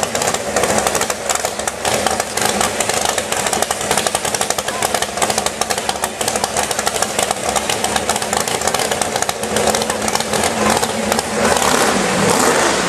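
Mud-bog truck engine running at high revs, a dense rapid stream of firing pulses.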